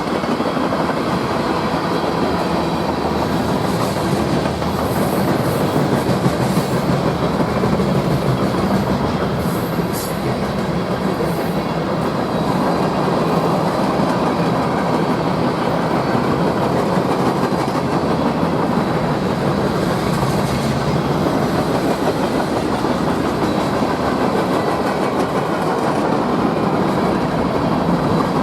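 Freight train cars rolling past, a steady loud rumble of wheels on rail with clickety-clack over the joints.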